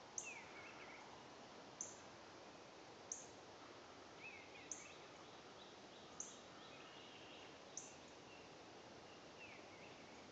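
Woodland birds calling against a faint background hiss. One repeats a short, very high, thin note about every one and a half seconds. Quieter, lower chirping phrases come in now and then, three or four times.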